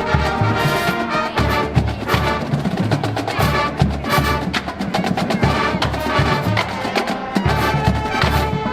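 Marching band playing: brass section over drums and percussion keeping a steady beat.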